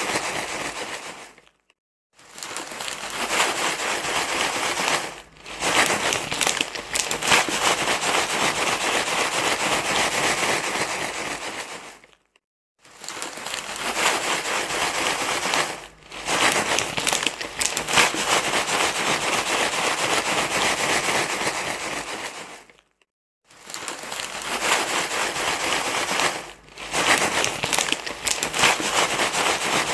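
Continuous crinkling, rustling noise, like something being crumpled and handled close up, broken by short silent gaps about every ten seconds with smaller dips between.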